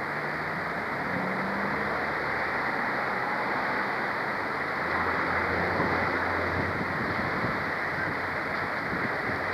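A train running, a steady rumbling noise with a faint engine hum that strengthens about halfway through.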